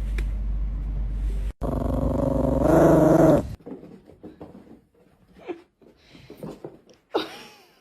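A dog growling, loudest in a drawn-out pitched growl from about one and a half to three and a half seconds in, followed by fainter short sounds.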